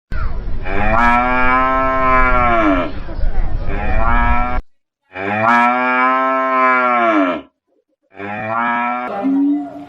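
Cattle mooing: two long moos, each rising then falling in pitch, and a shorter call near the end, with sudden cuts to silence between them.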